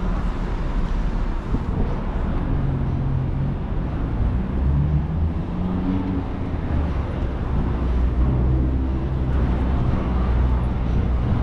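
City street traffic noise with the low engine hum of a nearby vehicle, which grows stronger a couple of seconds in and shifts in pitch.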